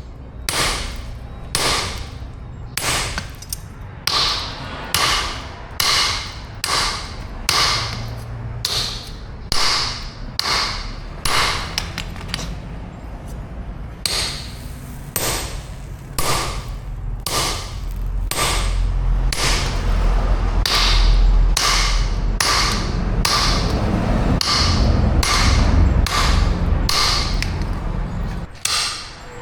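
Hammer blows on steel at the anvil, a steady forging rhythm of about three strikes every two seconds. From about halfway a low rumble runs underneath the strikes and fades near the end.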